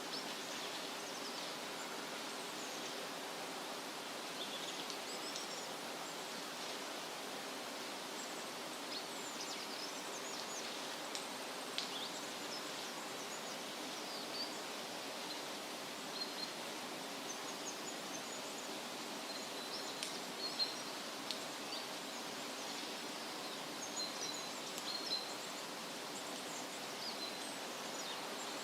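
Steady rustle of wind through leafy trees, with small birds chirping in short, scattered calls throughout.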